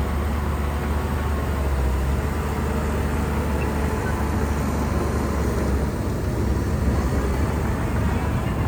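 Shantui bulldozer's diesel engine running steadily, a deep continuous rumble that eases slightly about six seconds in.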